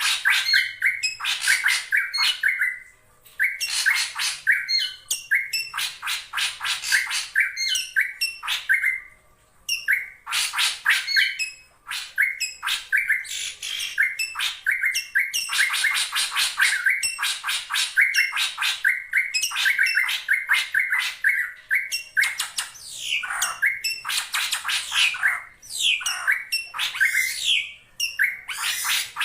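Drongo (srigunting) calling in fast runs of short notes, breaking off briefly a few times: a lure call of the kind played to draw in rival drongos.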